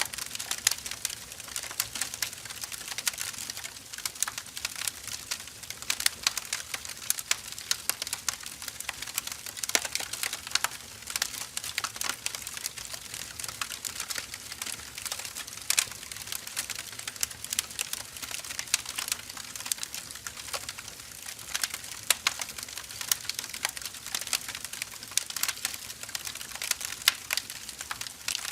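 Firewood burning in an open fire, crackling and popping: a steady run of dense, irregular sharp crackles over a soft hiss.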